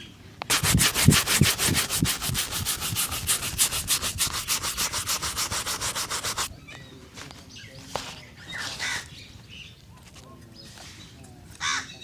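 A shoe being buffed with quick back-and-forth strokes, about eight a second, a steady scratchy rubbing that stops about six and a half seconds in; after that come only faint, scattered handling sounds.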